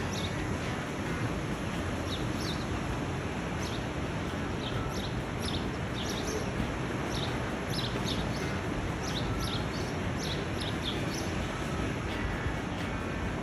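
Outdoor ambience: a steady rushing background noise with small birds chirping over it, many short high calls scattered all the way through.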